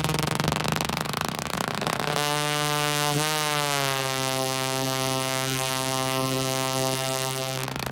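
Electronic dance music breakdown without drums: a hissing synth wash gives way to a sustained, buzzy synthesizer chord over a held bass note. The chord wobbles in pitch about three seconds in, then holds until the beat returns at the end.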